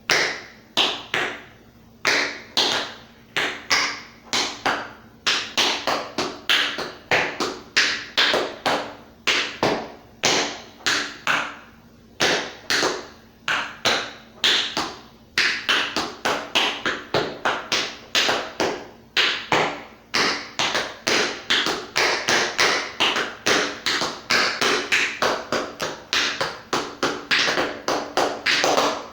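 Tap shoes striking a hard floor in quick rhythmic groups of taps with short pauses between phrases, a tap dance routine danced without music.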